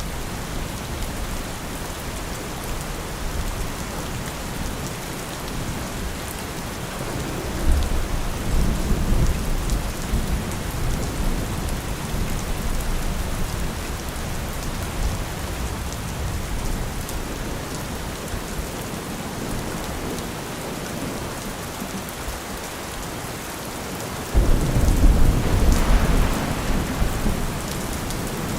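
Steady rain falling, with low thunder rumbling twice: a soft roll about a third of the way in and a louder rumble that starts abruptly near the end and fades.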